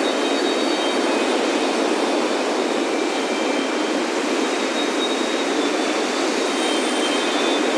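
Steady, unbroken roar of ocean surf washing on a beach, with faint high wind-chime tones ringing now and then over it.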